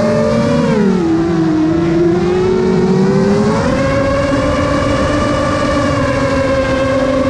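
FPV quadcopter motors whining in several tones together. Their pitch dips about a second in, climbs back around three and a half seconds, then holds steady.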